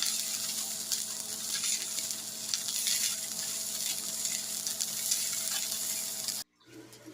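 Fish frying in a hot pan: a steady sizzle and crackle of oil, with a faint steady hum underneath. It cuts off abruptly near the end.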